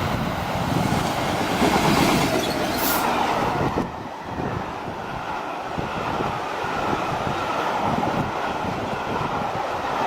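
A train passing close by on the main line: dense wheel and rail noise with a steady whine, and a brief hiss about three seconds in.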